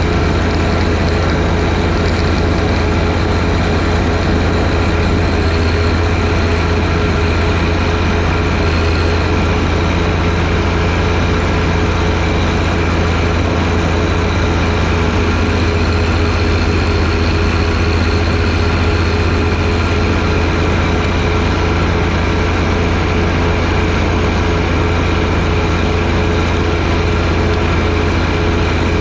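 John Deere 1025R sub-compact tractor's three-cylinder diesel engine running at a steady speed, with no change in pitch or level.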